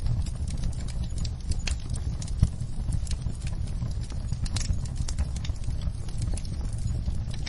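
Wood fire burning in a fireplace: a steady low rumble of flames with irregular crackles and pops from the logs, one sharper pop about two and a half seconds in.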